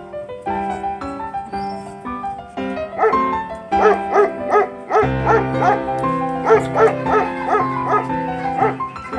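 Newborn Belgian Malinois puppies squeaking and whimpering, a quick run of short high cries a few per second starting about three seconds in, over piano background music.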